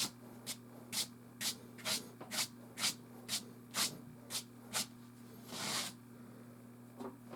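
Soft pastel stroked across canvas: about ten short scratchy strokes at roughly two a second, then one longer stroke near the end.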